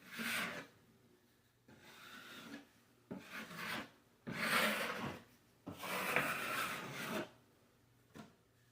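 A drywall knife scraped across the wall in five long strokes, spreading a coat of joint compound over a drywall patch, with a small click near the end.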